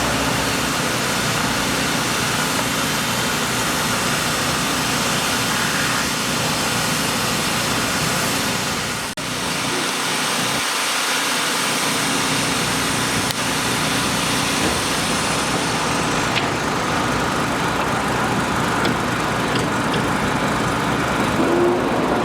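Steady engine and road traffic noise, with a brief dropout about nine seconds in.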